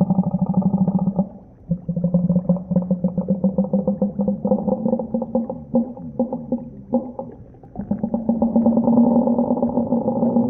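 Deep underwater sound: a low, rapidly pulsing moan made of several stacked tones, dropping away briefly twice before swelling back.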